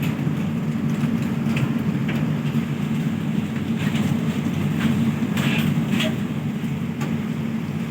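Passenger train running, a steady low rumble with scattered clicks and rattles.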